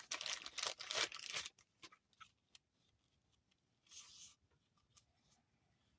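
Packaging crinkling and rustling as beading wire is taken out, densest in the first second and a half, then a few small clicks and a short rustle about four seconds in.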